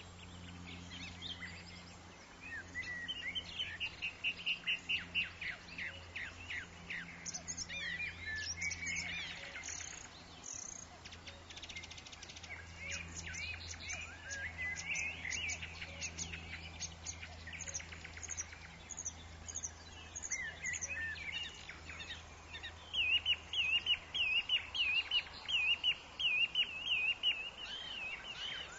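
Several birds calling and singing in forest ambience: repeated chirps and trills, with a loud, fast warbling song in the last few seconds. A faint steady low hum lies underneath.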